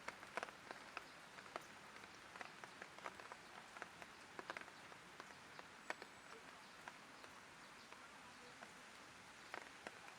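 Light rain falling: a soft steady hiss with individual drops ticking at irregular moments, a few of them sharper, such as one about six seconds in.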